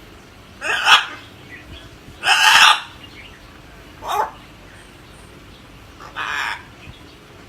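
Pet parrot squawking: four harsh, loud calls a second or two apart, the second one the longest and loudest.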